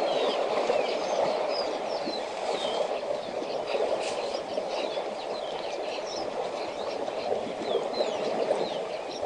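Many small birds chirping, short quick calls repeating throughout over a steady background noise.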